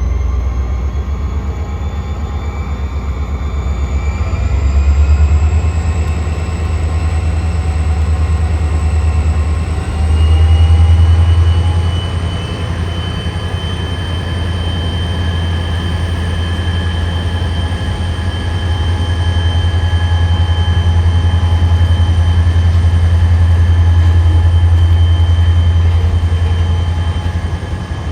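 Train running past with a heavy low rumble and a whine that rises in pitch over the first dozen seconds, then holds steady; the sound swells twice, about five and eleven seconds in.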